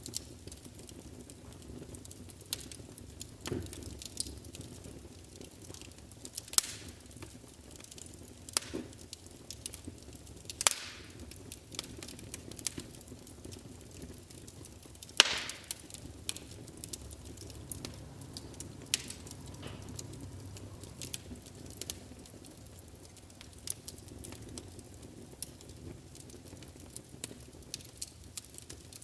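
Wood fire burning in a fireplace: a low steady rush of flames with irregular sharp crackles and pops, the loudest about halfway through.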